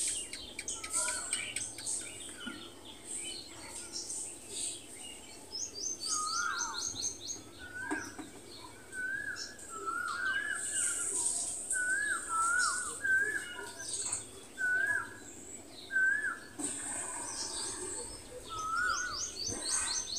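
Birds calling outdoors: short rising-and-falling notes repeated about once a second, with a couple of quick runs of high chirps.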